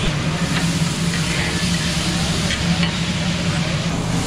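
Chopped tomatoes sizzling and frying on a huge flat tawa, stirred with a metal spatula that scrapes and ticks against the plate now and then. A steady low hum runs underneath.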